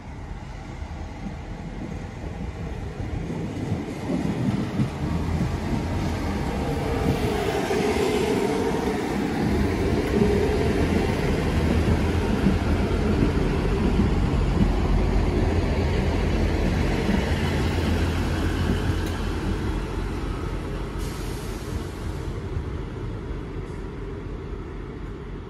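Class 158 Sprinter diesel multiple unit running into a station and passing close by: underfloor diesel engine rumble and wheel noise growing as it approaches. It is loudest through the middle as the carriages go past, then eases off as the unit slows away down the platform.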